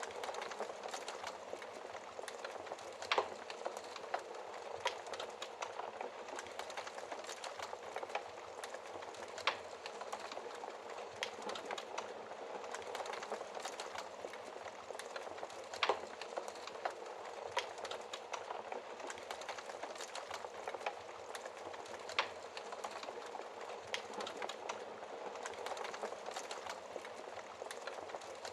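Wood fire crackling in a fireplace: a steady hiss with frequent small pops and a few louder snaps spread through.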